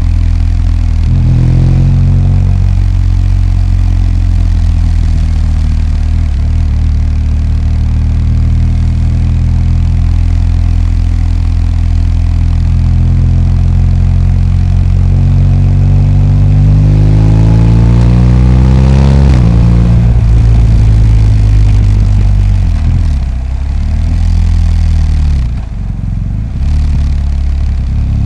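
BMW R 1250 GS's 1254 cc boxer twin running at low revs in traffic, rising steadily in pitch as it accelerates for several seconds past the middle, then dropping back suddenly as the throttle closes. Two brief dips in revs near the end.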